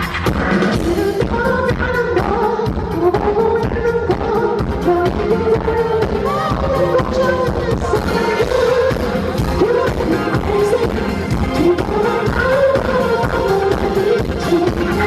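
Pop song with a man singing over a steady beat.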